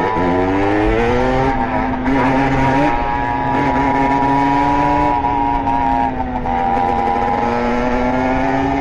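Beta RR two-stroke motorcycle engine, fitted with a 70cc Airsal cylinder kit and a handmade SCR Corse expansion exhaust, running under load while riding. The revs climb over the first second or so, hold steady, drop briefly about six seconds in, then climb again near the end.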